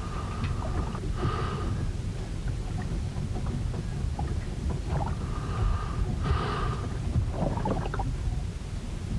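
Ship in a storm: a steady low rumble of wind and water against the hull, with higher drawn-out, creak-like sounds that come back in pairs about every five seconds, twice in this stretch.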